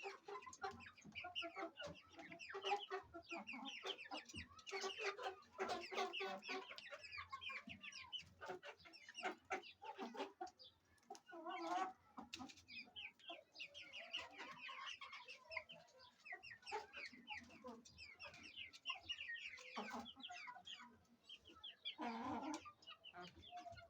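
Aseel chickens clucking, with a dense run of short, high calls overlapping throughout and a louder burst of calls near the end.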